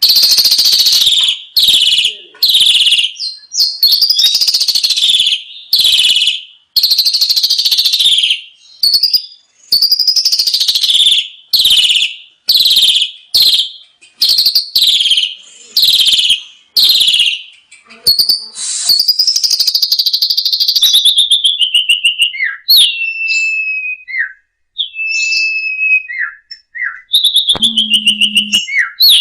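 Asian pied starling (jalak suren) singing loudly: a long run of harsh, chattering notes repeated about once or twice a second, giving way to thinner whistled notes that slide downward. A brief low steady tone sounds near the end.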